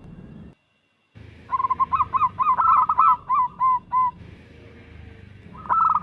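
Zebra dove (local perkutut) singing: a quick run of short, clipped coos that spaces out and ends on a few slower notes, with a new run starting near the end. The sound drops out completely for about half a second near the start.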